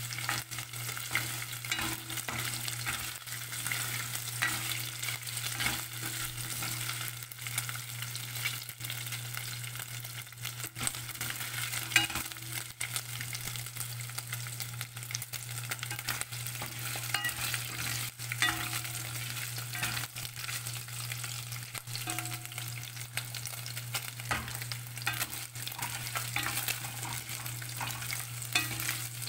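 Strips of pork sizzling in hot cooking oil in a nonstick pot as they are sautéed to brown, while a spatula stirs and scrapes them with scattered clicks against the pot, one sharper knock about twelve seconds in. A steady low hum runs underneath.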